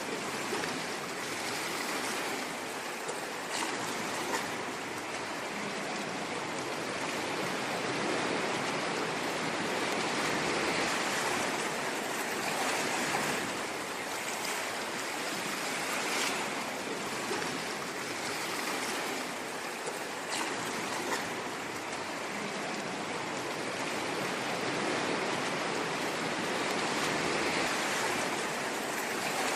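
Ocean waves washing onto a shore, a steady rush of surf that swells and eases every few seconds.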